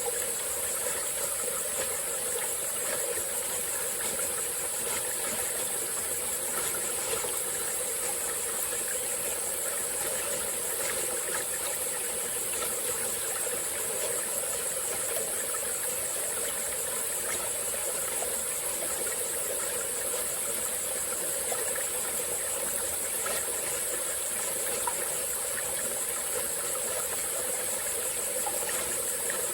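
Small tropical-forest stream flowing steadily, with a continuous high-pitched insect chorus over the water.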